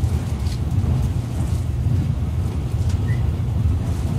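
Steady low running rumble of a 485-series electric limited express train, heard inside the passenger car while it travels at speed.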